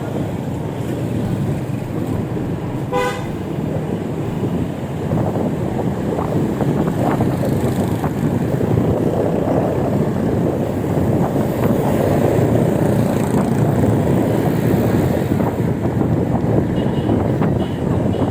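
Steady wind and road-traffic noise heard while riding, with one short vehicle horn toot about three seconds in.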